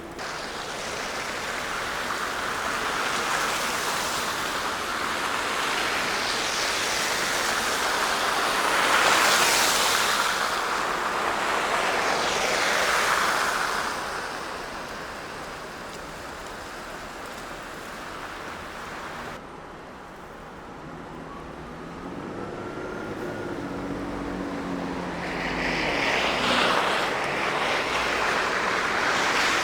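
City traffic passing on a snowy street: tyre hiss swells and fades several times and is loudest about nine to thirteen seconds in. In a quieter stretch after about twenty seconds there is a faint engine hum with a short rising whine, and the hiss builds again near the end.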